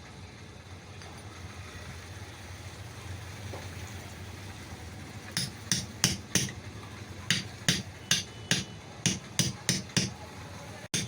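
About a dozen sharp metal taps of a hammer, in irregular groups, driving a ball bearing onto an electric breaker hammer's armature shaft. The taps start about halfway through, after a stretch of low steady background noise.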